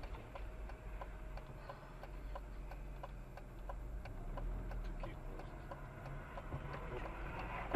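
A car's indicator relay ticking steadily, about two ticks a second, over a low engine and road rumble heard from inside the cabin.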